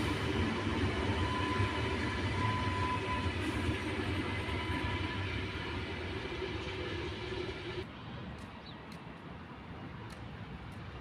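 A train running past on the station tracks: dense rumbling rail noise with a steady whine between about one and three seconds in, fading and then dropping off sharply about eight seconds in to a quieter rumble.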